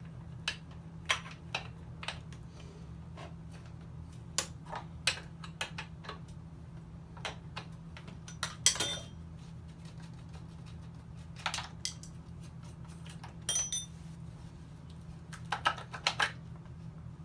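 Irregular metallic clicks and clinks of a chainsaw being taken apart by hand: the side cover, bar and chain coming off to reach the drive sprocket. A steady low hum runs underneath.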